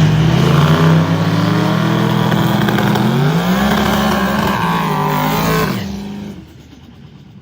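Diesel drag trucks at full throttle racing head-to-head down the strip; the engine note climbs about three seconds in, then drops and fades away about six seconds in.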